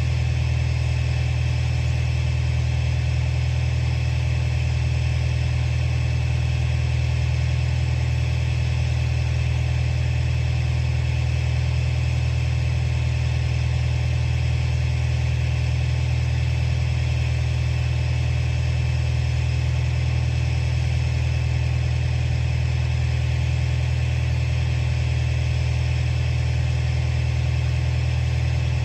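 Komatsu bulldozer's diesel engine running at a steady, unchanging drone with a strong low hum.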